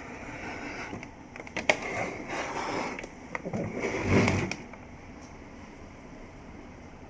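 Plastic housing and parts of a Hamilton Beach FlexBrew coffee maker being handled and worked apart: a sharp click, a stretch of scraping, and a louder knock about four seconds in.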